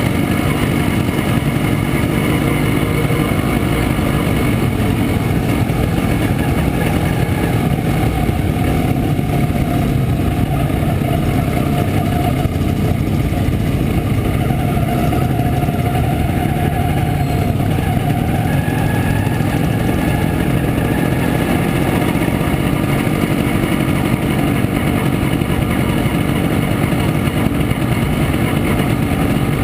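Montesa Impala Comando 175's single-cylinder two-stroke engine running steadily as the motorcycle rides along.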